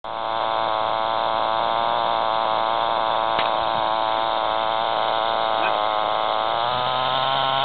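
Small glow-fuel (nitro) engine of an RC helicopter running steadily at a high-pitched buzz, its pitch stepping up slightly near the end. The owner finds this engine short of power.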